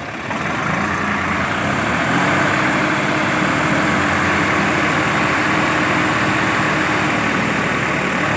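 Swaraj 855 FE tractor's three-cylinder diesel engine running steadily, getting louder about half a second in.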